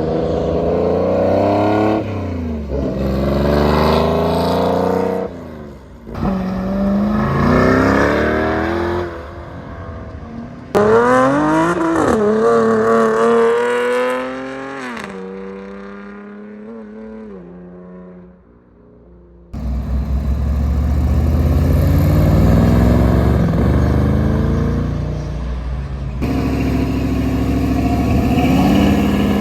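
High-performance car engines revving hard in several short clips, the pitch repeatedly climbing and dropping. Near the middle one car pulls away, its engine note falling and fading before a sudden cut to more loud engine noise.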